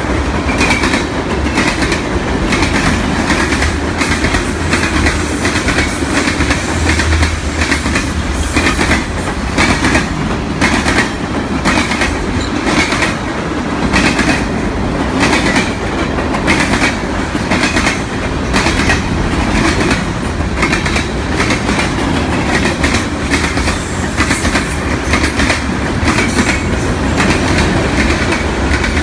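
Freight cars of a long train rolling past, their wheels clicking steadily over rail joints.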